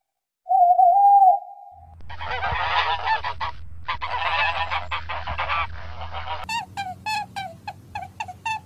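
A domestic goose honking over and over for about four seconds, after a brief steady hooting tone about half a second in. Near the end comes a quick run of short, high, falling squeaks, several a second.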